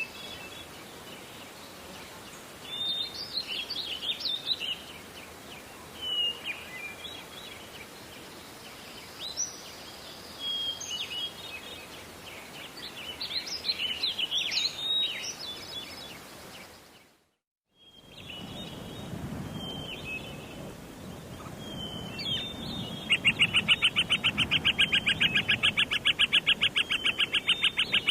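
Wild songbirds singing in short chirping phrases. The sound cuts out completely for about a second in the middle. Near the end, a loud, rapid, even trill takes over.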